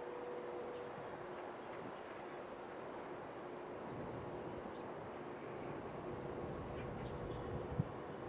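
A steady, high, rapidly pulsing insect trill, like a cricket, over a low rumble that grows stronger in the second half, with a single sharp knock near the end.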